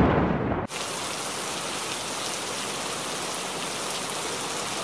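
A loud, deep rumble of thunder fades and cuts off abruptly less than a second in, leaving a steady hiss of heavy rain.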